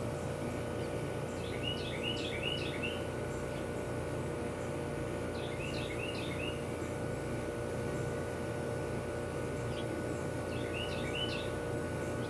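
A songbird singing three short phrases of quick chirping notes, each about a second long and roughly four seconds apart, over a steady background hum.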